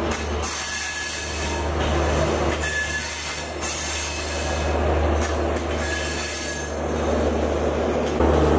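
Intercity passenger coaches rolling slowly past over the rails, with a steady low rumble and wheel noise. Short high wheel squeals come three times. Near the end the sound suddenly gets louder.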